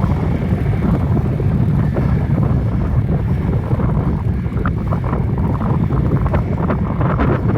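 Wind buffeting a phone microphone on a moving bicycle: a loud, steady low rumble, with a few faint clicks near the end.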